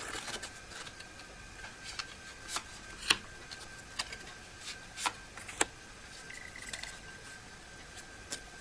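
Tarot cards being handled: a handful of sharp clicks and light taps at uneven intervals as the cards are shuffled and laid out.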